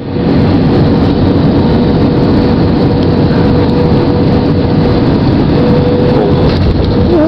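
Steady rumble of an Airbus airliner's engines and rushing air heard from the cabin, with a faint steady hum through most of it.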